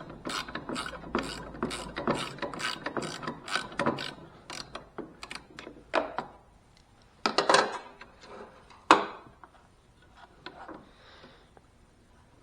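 Ratchet wrench clicking at about three clicks a second as a bolt on a zero-turn mower's lap bar arm is turned loose, then stopping. A few louder metal clanks follow, near the middle of the stretch.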